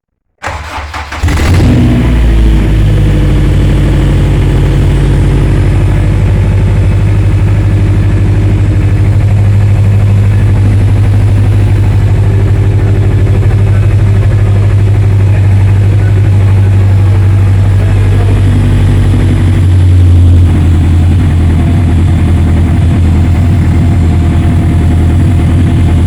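Turbocharged Honda K24A2 2.4-litre inline-four cranking briefly and catching about a second in, at its first start on an AEM Series 2 ECU base calibration. It then runs steadily and loudly, with a short swell in level about twenty seconds in.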